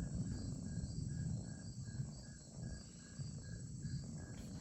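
Crickets chirping in an even rhythm, about two or three chirps a second, over a steady low rumble.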